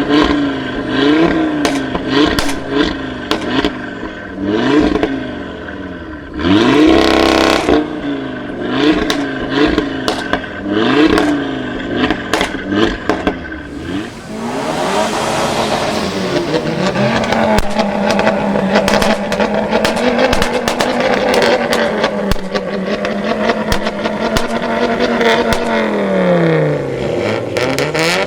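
A performance car engine blipped repeatedly, about once a second, through a loud exhaust, with sharp pops in between and one louder full rev. It then holds a steady, high engine note, which drops and rises again near the end.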